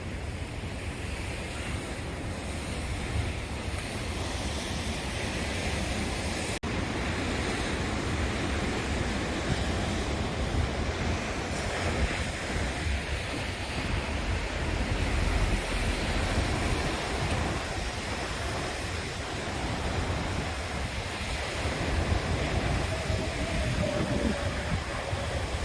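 Wind buffeting the microphone of a camera carried on a moving bicycle: a steady rushing noise with a fluctuating low rumble underneath.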